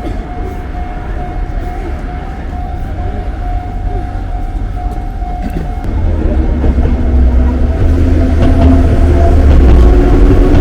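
A railway warning bell rings in a steady on-off pattern. About six seconds in, an Enoden train's rumble comes in and grows louder as it approaches, with steady motor tones over it.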